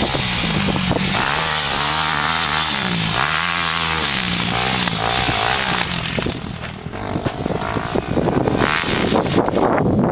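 Suzuki RM-Z250 motocross bike's single-cylinder four-stroke engine revving up and down repeatedly, dropping off briefly past the middle, then coming back rougher and noisier near the end.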